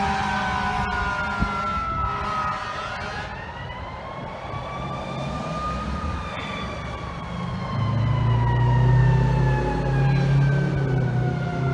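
Fire engine's siren wailing in a slow rise and fall. About eight seconds in, a louder, deep steady blare joins it and runs on with short breaks.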